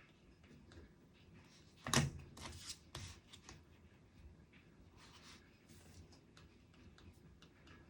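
Desk handling sounds: a knock about two seconds in, followed by a quick run of clicks and rustles, then scattered faint taps and rustles, as of paper and stationery being handled.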